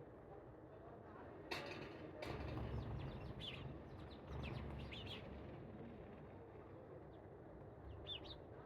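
Small birds chirping in short, scattered calls, with two sharp knocks about a second and a half and two seconds in, and a low rumble underneath for a few seconds.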